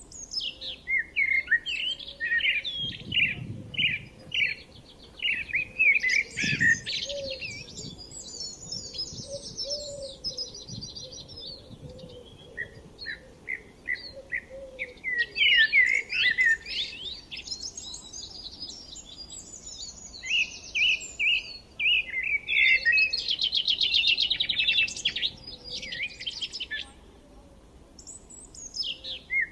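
Several songbirds singing and chirping, with quick repeated chirps and fast trills overlapping.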